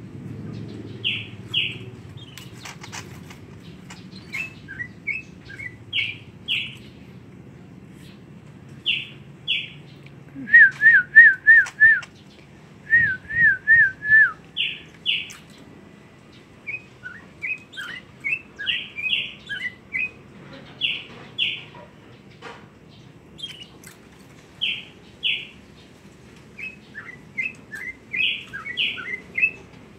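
Pet songbird chirping: short notes, often in pairs, repeating every second or two, with two loud runs of five or six quick wavering notes about ten and thirteen seconds in.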